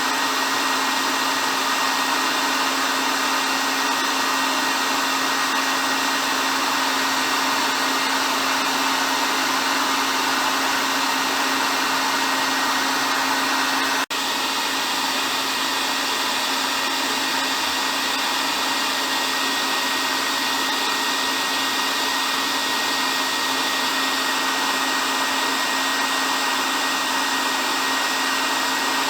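Hair dryer running steadily: a continuous airy blowing with a steady low hum from its motor, broken only by a momentary dip about halfway through.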